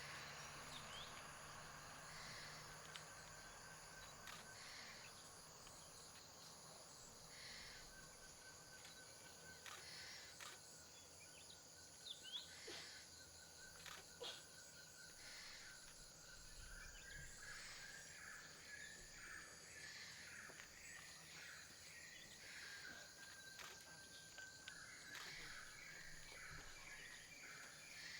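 Faint forest dawn ambience: a steady high-pitched insect chorus, with a thin held whistle and a run of repeated short chirps that grows busier in the second half, and a few faint clicks.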